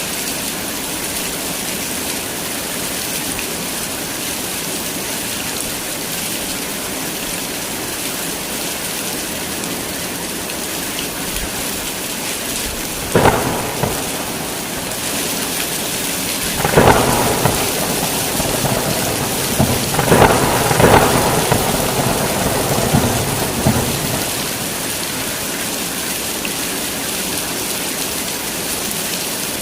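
Heavy rain falling steadily with a constant hiss. About halfway through, a thunder crack strikes, followed by several rolling rumbles of thunder before the rain settles back to its steady level near the end.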